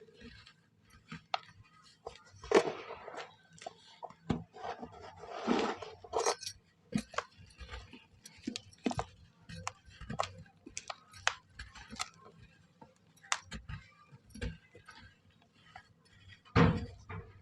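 Dry moulded shapes of mud, charcoal and red sand being crumbled, with many sharp crackles and clicks of breaking pieces and a few longer crumbling bursts, the loudest near the end.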